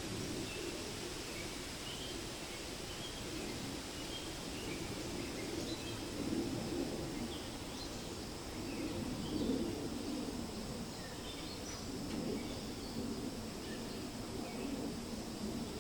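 Wind rustling through forest leaves in a steady wash that swells a little now and then, with scattered short bird chirps throughout.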